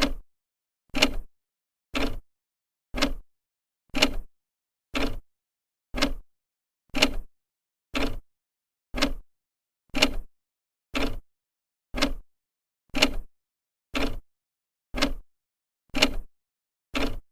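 An old clock ticking with its second hand: one sharp, even tick every second, with silence between the ticks.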